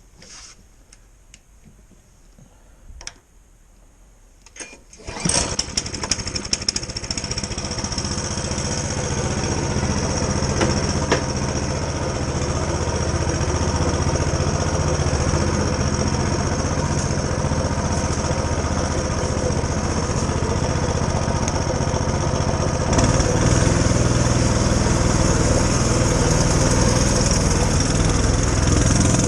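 A few light clicks and knocks, then a Coleman CT200U-EX mini bike's small single-cylinder engine starts about five seconds in and runs steadily. It gets louder with more throttle about 23 seconds in.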